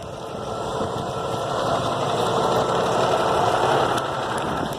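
A vehicle engine running, its sound growing louder over the first few seconds and dropping off about four seconds in.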